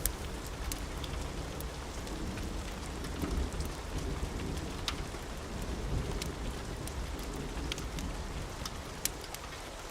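Steady rain with a low rolling rumble of thunder that swells a few seconds in and again around the middle, dotted with scattered sharp ticks and pops.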